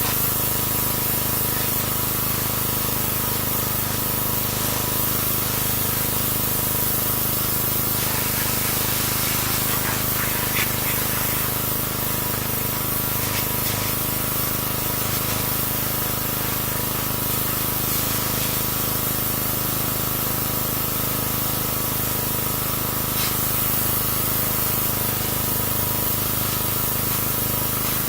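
Pressure washer running without a break, the steady hiss of its water spray over a constant hum.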